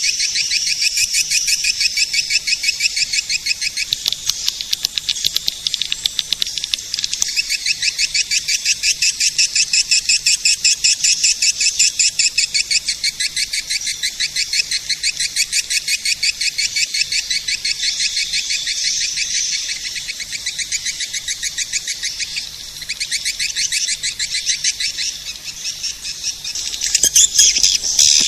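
Swiftlet-caller recording of swiftlet calls, played to lure swiftlets: a dense, unbroken twitter of rapid high-pitched chirps, louder and more jumbled near the end.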